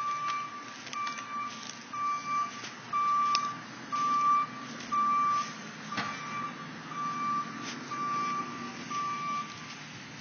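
A vehicle's reversing alarm beeping steadily, about one beep every three quarters of a second, over a low engine rumble; the beeping stops near the end. A couple of sharp knocks sound in the middle.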